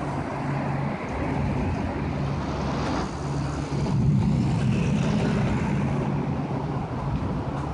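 Steady roar of wind from the approaching front of a severe thunderstorm, a sound like passing cars, swelling about four seconds in, with a low hum that comes and goes.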